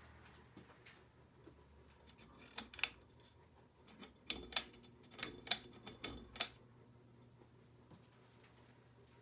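A run of sharp clicks and light knocks, about a dozen, bunched from about two and a half to six and a half seconds in, over a faint steady low hum.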